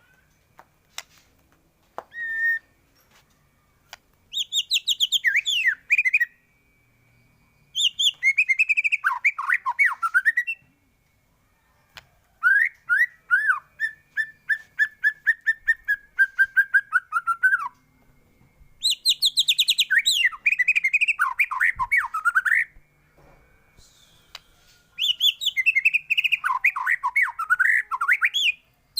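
White-rumped shama (murai batu) singing, about five long phrases of fast, varied whistles and trills separated by short pauses. One phrase in the middle is a quick run of repeated notes held on one pitch.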